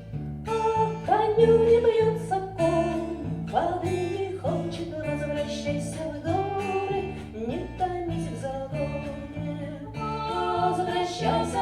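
Acoustic guitar picking a steady accompaniment pattern under a higher melody line that slides between notes: an instrumental interlude in a slow song.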